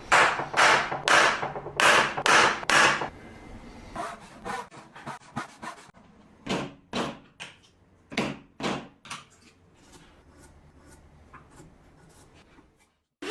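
Hammer blows on wood while working a mortise-and-tenon joint: a quick run of six heavy strikes about half a second apart, then lighter taps, another group of heavy strikes about halfway through, and fainter taps near the end.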